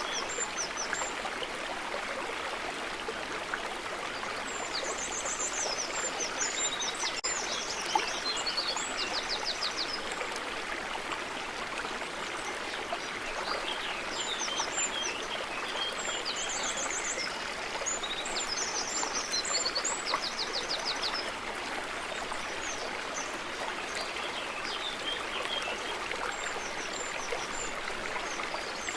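Stream running steadily with birdsong over it: a bird sings a phrase of quick high chirps and fast trills about five seconds in, and another from about fourteen to twenty-one seconds. A single sharp click about eight seconds in.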